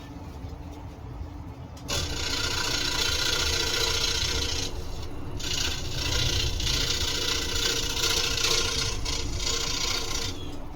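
Scroll saw blade cutting through wood. The cutting noise starts suddenly about two seconds in, eases off briefly near the middle, and stops just before the end.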